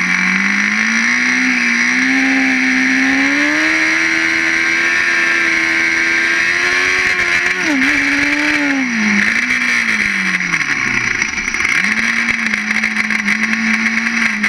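Ice-racing car engine running at changing revs: its note climbs and falls with the throttle, drops right down about eleven seconds in, then picks up and holds steady, over a constant hiss.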